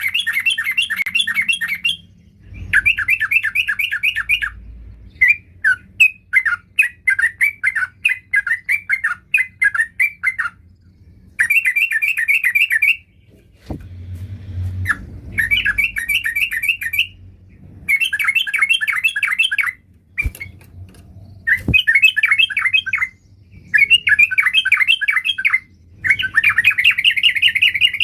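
Yellow-vented bulbul (trucukan) singing: bursts of fast, chattering runs of notes, each lasting a second or two, repeated over and over with short pauses between them.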